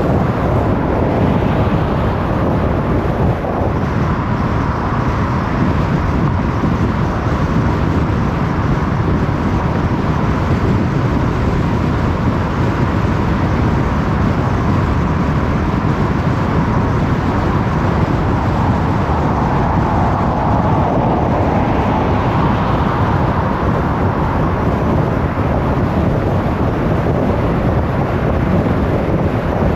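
Car driving along a road: steady tyre and road noise with engine hum. The hiss swells briefly about two-thirds of the way through.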